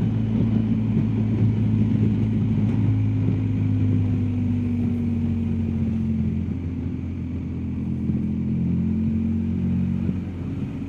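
BMW R1250GSA's boxer-twin engine running at road speed under a rider and passenger. It is a steady, low engine note whose pitch eases down a little about six seconds in.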